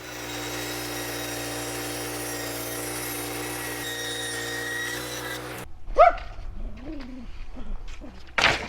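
A steady motor hum with several tones that cuts off abruptly about five and a half seconds in, followed by a few short rising-and-falling animal whines.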